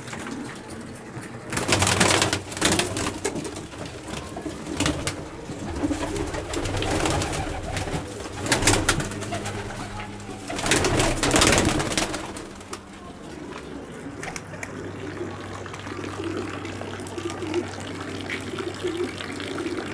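Domestic pigeons cooing in low, warbling calls. Loud rustling bursts come about 2, 9 and 11 seconds in.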